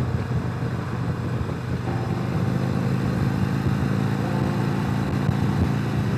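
Motorcycle engine running steadily, with an even drone and a haze of road and wind noise.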